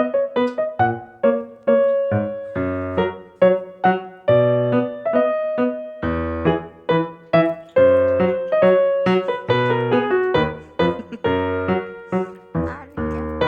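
Background piano music: a melody of struck notes that ring and fade, over lower bass notes.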